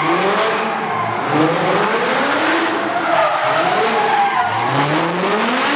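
Car engine revving up again and again, about once a second, over a steady hiss of tyres spinning and skidding.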